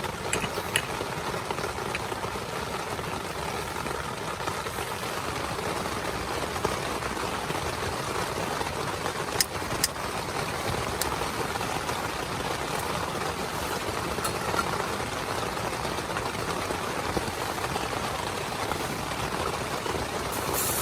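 Heavy rain drumming steadily on a small tent, with a few sharp ticks of single drops about halfway through.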